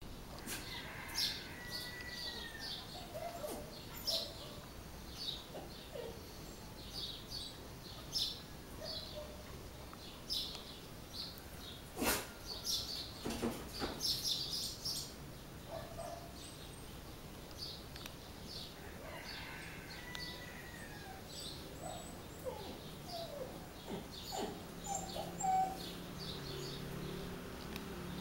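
Birds chirping: many short, high chirps repeated throughout, with a few whistled notes. A single sharp click about twelve seconds in, and a low steady hum that comes in near the end.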